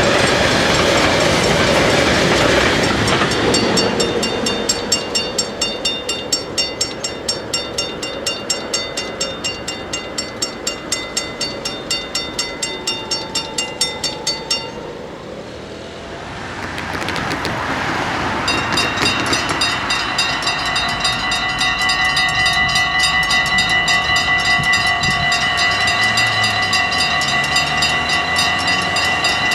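A train rushes past at first. Then a Dutch automatic half-barrier level crossing's bells ring fast, about three strokes a second, and cut off about halfway through. After a swell of noise, the crossing bells start ringing again and keep on.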